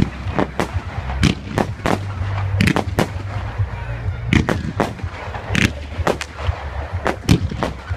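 Fireworks display going off in quick, irregular succession: many sharp bangs, about two a second, over a steady low rumble.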